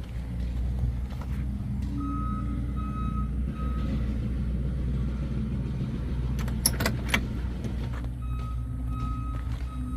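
A vehicle engine running steadily with a low rumble, while a high electronic beep repeats about twice a second in two spells. There are a few sharp clicks about two thirds of the way in.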